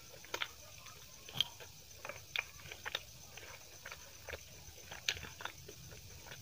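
Close-up eating sounds: a mouthful of chicken biryani being chewed, with irregular wet clicks and smacks, along with fingers working the rice on a steel plate.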